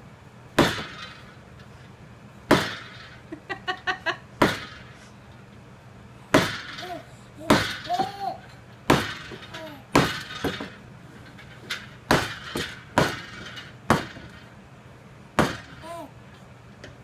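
Repeated loud, sharp bangs of something being struck, a dozen or so, one every one to two seconds, each ringing briefly, with a quick run of four lighter knocks about four seconds in. Short voiced cries come between some of the bangs.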